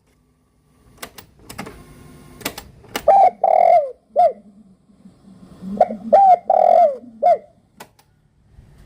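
A bird cooing: two phrases of a few short arched notes, about three seconds apart, with scattered sharp clicks before the first phrase.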